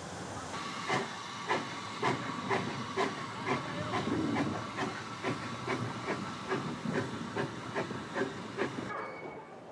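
Steam locomotive working under steam: sharp exhaust beats about two a second, quickening slightly, over a steady hiss of steam. The sound cuts off suddenly near the end.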